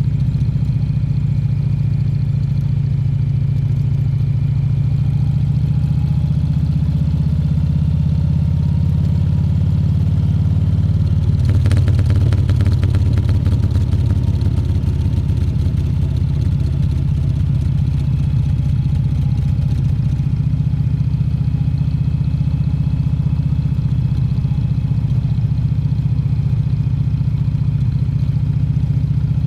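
Harley-Davidson Fat Bob 114's Milwaukee-Eight 114 V-twin engine running at a fairly steady pitch, with a rougher, louder stretch from about a third of the way in to about two thirds.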